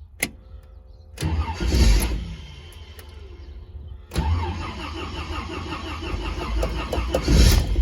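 A car's starter cranking the engine on a hard start, the starter heavily loaded: a click, a short loud burst of cranking about a second in, then a longer, steady rhythmic crank from about four seconds in that grows loudest near the end.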